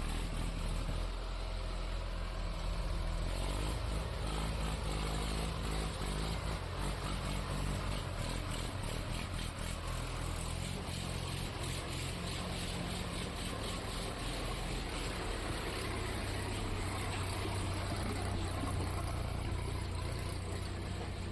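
Tractor diesel engines running under heavy load as a Hindustan-60 tractor helps pull a loaded Sonalika tractor up a slope, the engine note shifting a few seconds in and again about halfway.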